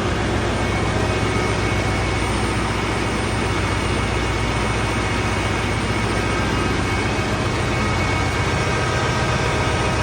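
Steady engine-room machinery noise from the ship's running diesel generators: a constant low hum under an even roar, unchanging throughout.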